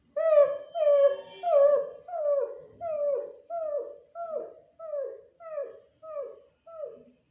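A dog whining: a steady string of short, high whines, each falling in pitch, about two a second and slowly growing fainter.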